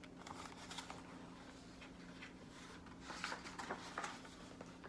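Faint rustling and light taps of paper being handled, such as the pages of a picture book, in two short clusters near the start and about three seconds in, over a steady low hum.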